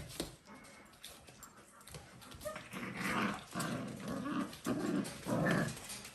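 Dalmatian puppies growling in play, with faint scuffling at first and then a run of about four growls in the second half.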